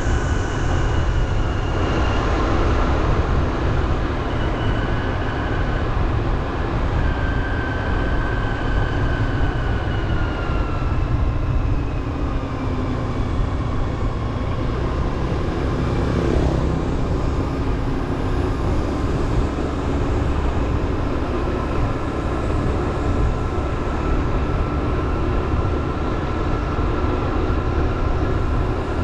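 Motorbike riding along, its engine running under heavy wind rumble on the microphone, with a whine that slides down in pitch around ten seconds in.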